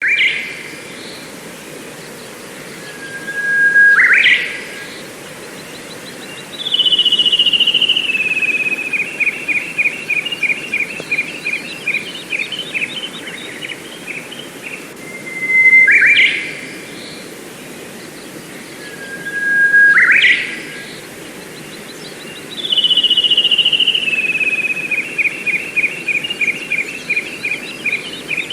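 A songbird singing over a steady background hiss. It gives a short, sharply rising call several times and, twice, a long song that slides down in pitch and breaks into a rapid trill.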